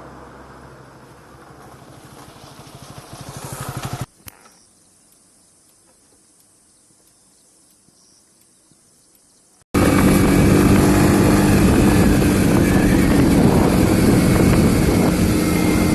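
Vehicle engine running: a rhythmic pulsing that grows louder, then cuts off about four seconds in. After a quiet stretch, a loud, steady engine and road noise starts abruptly near ten seconds in.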